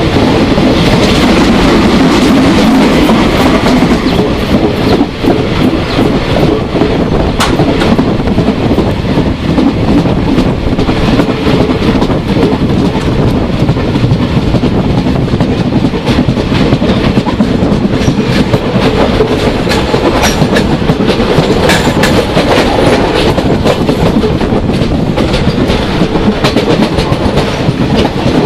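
Goods train hauled by a South African Railways Class 24 2-8-4 steam locomotive, running steadily with a continuous loud rumble and the rapid clatter of wheels over rail joints.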